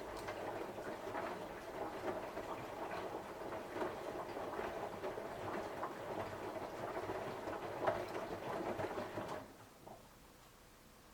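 Samsung washing machine drum turning on a 60°C cotton cycle, the laundry tumbling with a busy, pattering clatter. It stops suddenly about nine and a half seconds in as the drum pauses.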